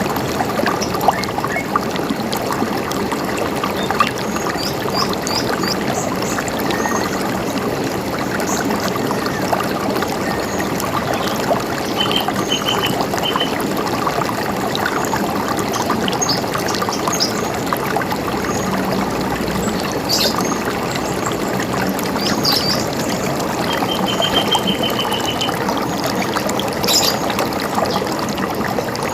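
River water running and gurgling steadily, with scattered bird chirps over it and two short, rapid trills, about twelve seconds in and again near twenty-four seconds.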